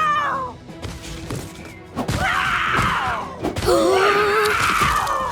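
Cartoon character's wordless vocal sounds, drawn-out groans and cries, over background music.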